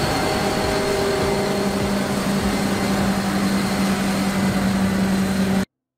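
Harvester engine running steadily with a constant low hum over machinery noise, cutting off abruptly near the end.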